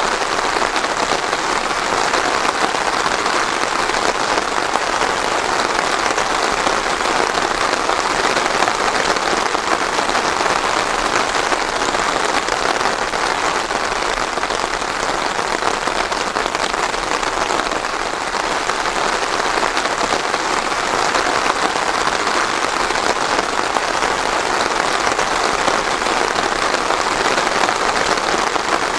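Steady rain falling and pattering on a surface, an even dense hiss of drops with no thunder.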